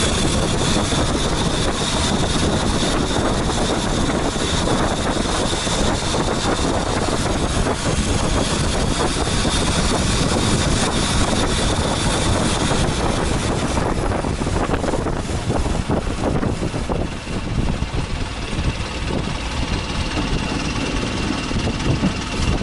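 Motorboat engine running steadily at cruising speed, with wind buffeting the microphone from about the middle onward.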